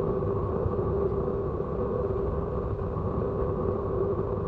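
A train running steadily: a constant low rumble with a steady hum over it.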